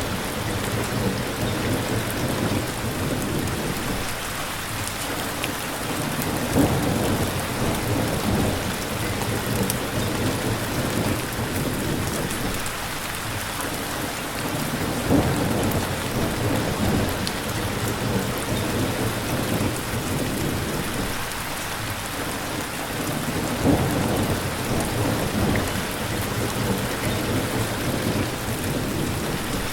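Steady heavy rain with thunder: low rolling rumbles swell up about three times, at the start, in the middle and near the end.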